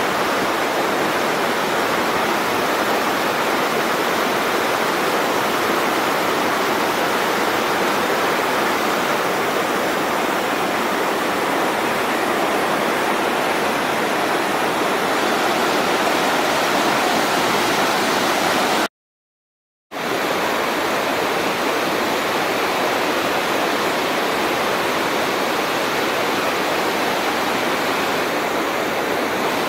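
Steady rushing of river water, with a sudden drop to silence for about a second about two-thirds of the way through.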